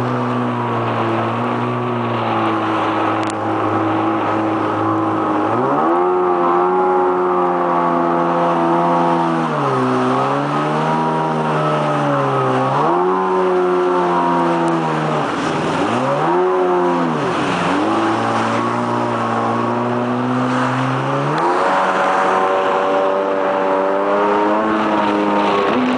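Jet ski engine running at a steady pitch, then revving up about a quarter of the way in. It rises and falls repeatedly as the throttle is opened and eased off, and settles to a steady higher pitch near the end.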